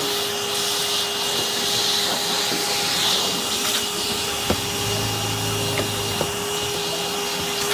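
Bagless upright vacuum cleaner running steadily with a constant whine over its rushing air, with a few sharp clicks as it picks up debris. Its motor is working again now that its carbon brushes, which dust had stuck in place, have been freed.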